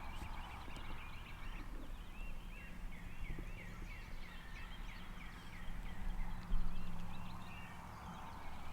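A bird singing a quick series of high, repeated chirps, several a second, over a low steady rumble, with a brief thump about two-thirds of the way through.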